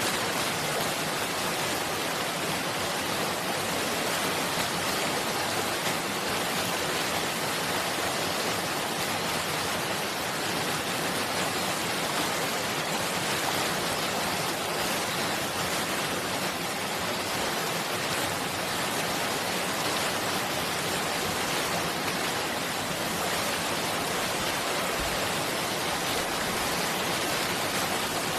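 Running water rushing steadily, an even unbroken wash of noise.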